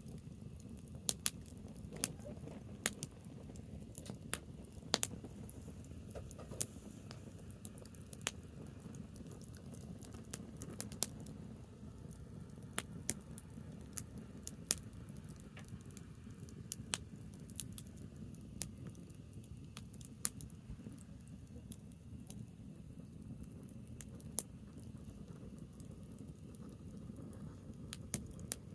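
Branch fire crackling: irregular sharp pops and snaps, a few to several a second, over a low steady rumble.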